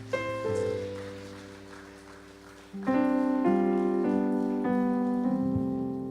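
Keyboard playing slow sustained worship chords: one chord struck and fading, then new chords about three seconds in that change every half second or so.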